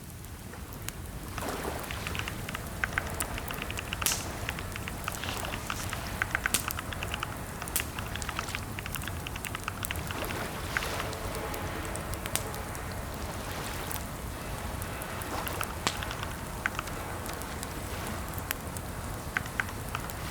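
Computer keyboard typing: irregular runs of key clicks, some sharper strokes standing out, over a steady hiss.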